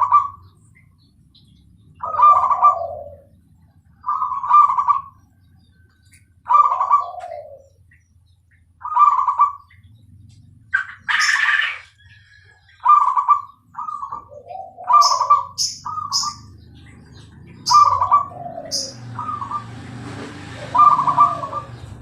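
Zebra dove (perkutut, Bangkok line) cooing, its phrase repeated about every two seconds. Short high chirps of another small bird come in over the second half.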